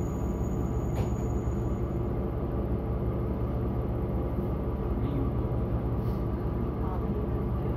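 Diesel railcar running along the line, heard from inside the passenger cabin: a steady engine drone and wheel-on-rail rumble, with a single sharp click about a second in.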